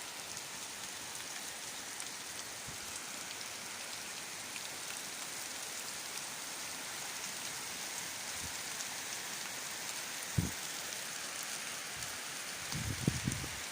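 Steady rain falling, an even hiss of drops. There is a short low thud about ten seconds in and a few more low thuds near the end.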